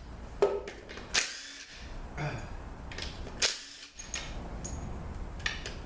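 Tools working on a 200-4R automatic transmission case on the bench while its pump bolts are being removed: a handful of separate metallic clanks and short tool bursts.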